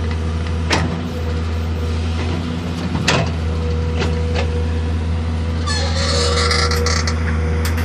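Excavator diesel engine running steadily with a low hum, with a few sharp metallic knocks. A higher rasping sound joins about six seconds in.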